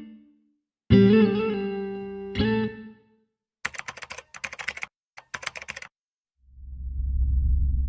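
Intro music: a few plucked electric guitar chords ring out, then a rapid clatter of clicks like typing on a keyboard, then a low rumble swells near the end.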